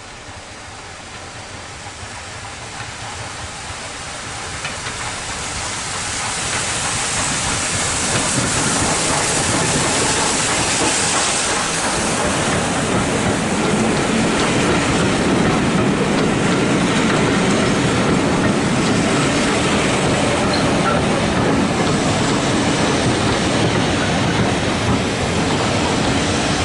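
Passenger train running on the rails, a rumble and rattle of wheels that builds over the first several seconds and then holds steady.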